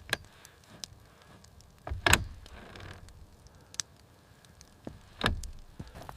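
Heavy thuds about two and five seconds in, with a sharp knock at the start and a few light clicks in between.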